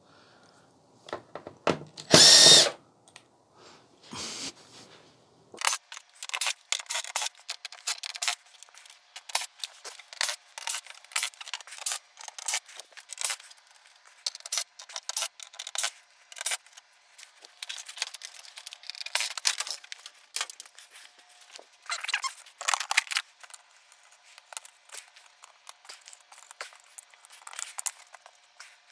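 A cordless power drill whines briefly about two seconds in, and again more faintly a couple of seconds later, as screws are run out of a flat-screen TV's back. Then comes a long run of quick clicks, taps and rattles as the plastic casing, screws and boards are handled.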